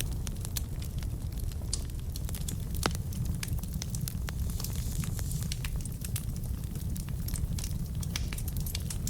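Burning logs in a fireplace crackling, with frequent sharp pops, one louder about three seconds in, over a steady low rumble of the fire.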